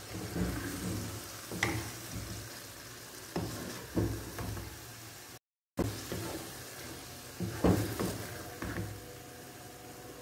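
Chicken filling frying in freshly added oil in a nonstick pan, sizzling steadily while a spatula stirs it, scraping and knocking against the pan every second or two. The sound drops out for a moment about halfway through.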